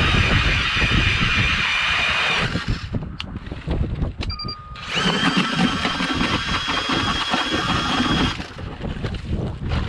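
Power ice auger drilling through ice: its motor runs with a steady whine, stops about two and a half seconds in, then runs again for about three and a half seconds from about halfway through. Wind noise on the microphone fills the gaps.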